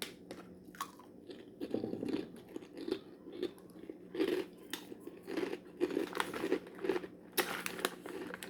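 Someone chewing crunchy Taco Bell Cheddar Crisps nacho-flavour chips with the mouth close to the microphone, a steady run of crunches about one to two a second.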